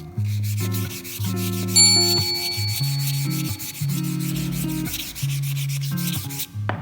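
Wood being sanded, a steady rasping that stops shortly before the end, under background music. A short high ding sounds about two seconds in.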